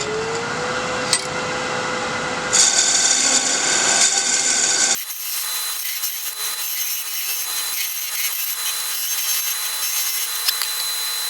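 Wood lathe spinning up with a rising whine that levels off. A turning tool then cuts into the spinning wooden spindle with a loud scraping hiss. About five seconds in the sound changes abruptly to a thinner hiss with a steady high whine.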